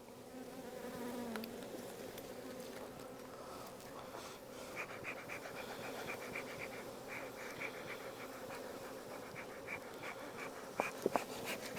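Honey bees buzzing around an open hive during a frame inspection: a steady hum, with a bee's pitch sliding as it passes close near the start. A couple of sharp clicks come near the end.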